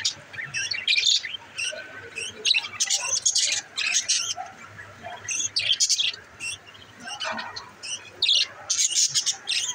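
Pet budgerigars chirping and chattering in quick, irregular high-pitched bursts with short pauses between.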